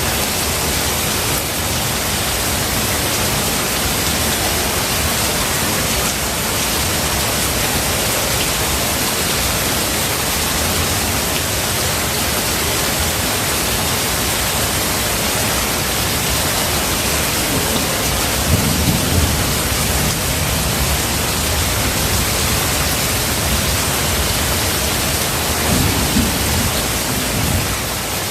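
Steady rain with two short, low rumbles of thunder, one about two-thirds of the way in and another near the end.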